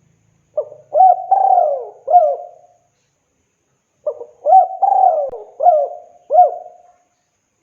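Spotted dove (tekukur) singing its cooing song twice, each phrase a short run of about four hooked coo notes. It is a male's call to a female.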